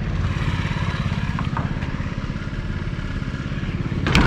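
A vehicle engine idling with a steady low rumble, and a loud clunk about four seconds in.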